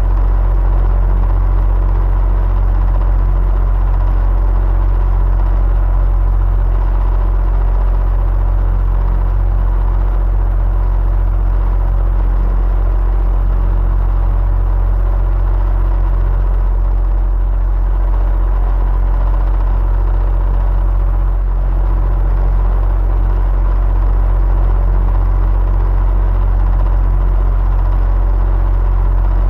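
Electric fan running steadily, a constant low hum and whir of air with a faint steady whine above it.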